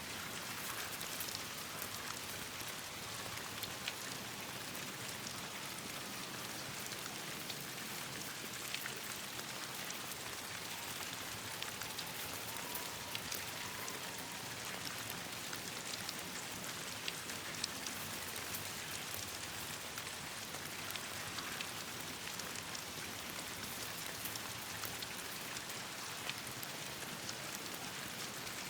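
Steady rain pattering on leaves and branches: an even hiss of falling drops with many small, sharp ticks scattered throughout.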